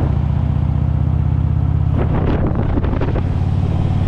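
Harley-Davidson V-twin motorcycle engine running steadily while riding at road speed, with wind buffeting the microphone from about two seconds in.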